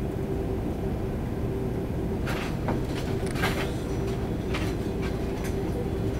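Airbus A330-300 cabin noise with the engines idling as the aircraft reaches the gate: a steady low rumble with a steady hum. A few light clicks and rattles come about two to three and a half seconds in, and twice more near the end.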